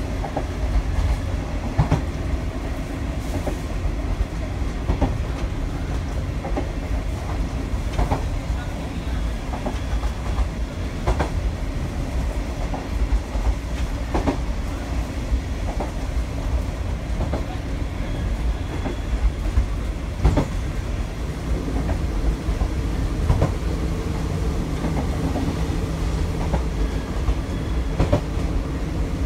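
Diesel railcar running along single track, heard from inside the car: a steady low rumble of engine and wheels, with a sharp clack from the wheels over a rail joint every few seconds.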